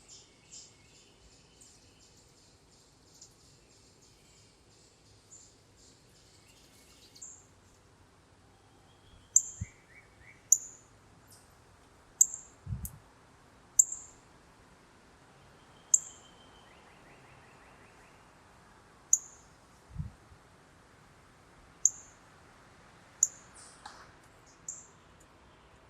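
Songbird calling: a quick run of high chirps for the first several seconds, then loud, sharp, high chip notes repeated every second or two. A few soft low thumps come in between.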